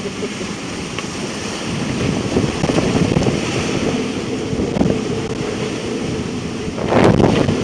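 Wind blowing across the microphone over the rush of the sea along a sailing schooner's hull in heavy wind, with a louder surge about seven seconds in.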